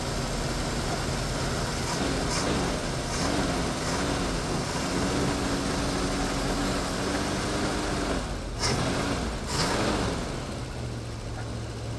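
AMC Rambler Rogue's carbureted engine running on fuel poured into the carburetor's float bowl, revved by hand at the throttle: a couple of short revs, held at a raised speed for a few seconds, two more quick blips, then back to idle near the end.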